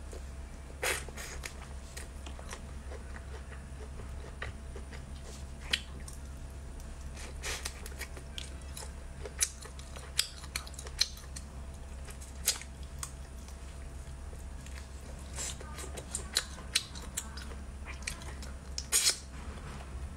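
Close-miked eating sounds as peeled crayfish tails are chewed: scattered sharp, wet clicks and smacks from the lips and mouth, over a steady low hum.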